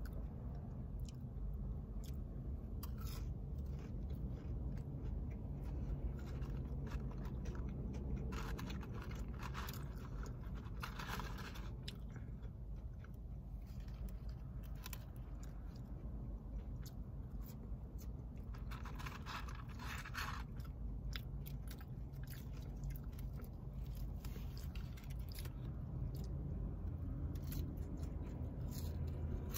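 A person chewing and biting chicken nuggets with ketchup and french fries close to the microphone, with louder clusters of crunching and mouth sounds a few times, over a steady low hum.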